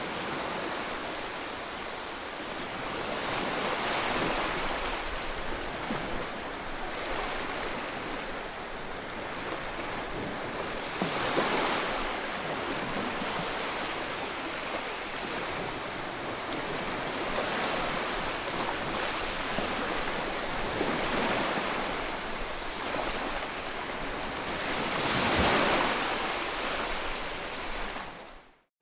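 Sea waves breaking and washing on the shore, a continuous rush that swells every several seconds, loudest about three-quarters of the way through. The sound drops out for a moment near the end.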